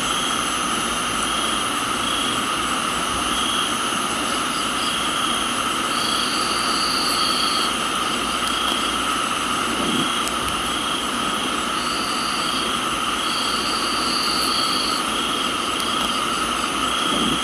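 Chorus of crickets and other insects in a tropical garden, several steady high-pitched trills layered together. One call pulses about once a second, and a higher trill starts and stops in spells of one to two seconds. A soft steady hiss of rain runs beneath.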